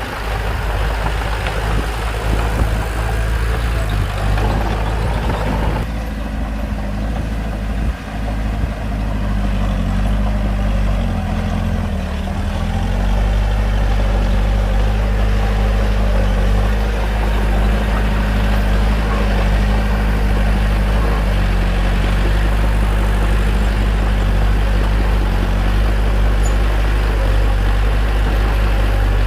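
Bulldozer's diesel engine running steadily, with a rougher, noisier stretch for the first several seconds. About eleven seconds in, the engine note dips briefly and comes back up.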